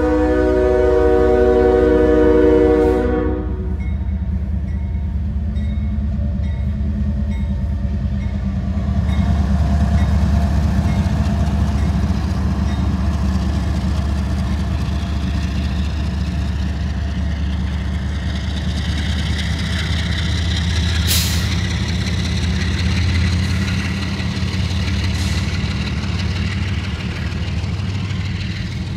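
The horn of CSX GE ES40DC diesel locomotives blows and cuts off about three seconds in. After that comes the steady low rumble of the locomotives and the freight cars rolling past. The grade-crossing bell rings at an even pace for several seconds, and there is a single sharp knock about three quarters of the way through.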